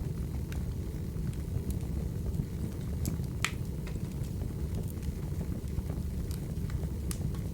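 Wood fire burning: a steady low rumble with scattered crackles and pops, one sharper pop about three and a half seconds in.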